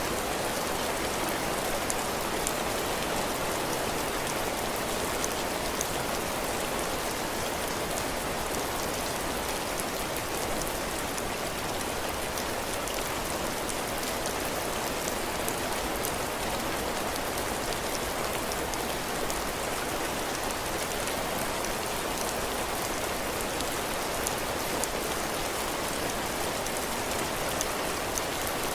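Heavy rain falling steadily, drops pattering on a cabin porch roof and the ground, with many small drop ticks over an even hiss.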